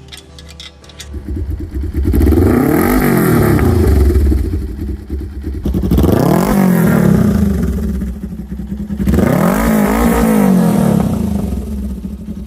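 Suzuki GSX400E's parallel-twin engine revved through a bosozoku-style open exhaust in three bursts of rhythmic 'call' throttle blipping, the pitch rising and falling several times within each burst.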